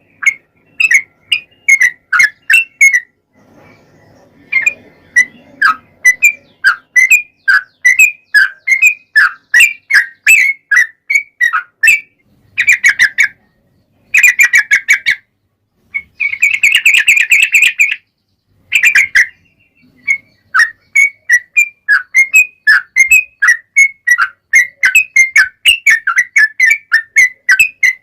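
Yellow-vented bulbul (trucukan) singing: a long run of short, sharp chirping notes, about two to three a second, broken around the middle by several stretches of dense rapid trilling.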